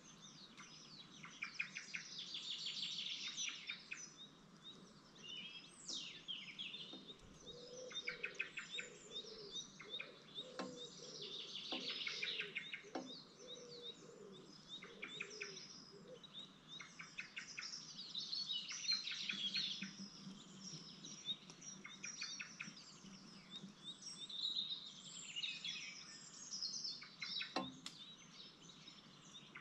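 Small birds chirping and calling in rapid high trills and repeated notes, with a few downward-sliding calls. A few faint ticks or knocks near the middle and near the end.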